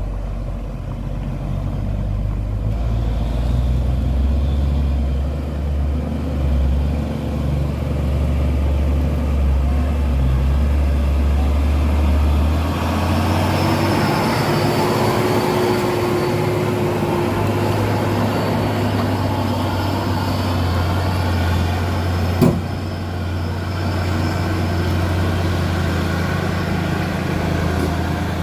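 Tronton heavy truck's diesel engine running steadily at low speed, its sound changing and growing fuller about halfway through. A single sharp knock comes about three-quarters of the way in.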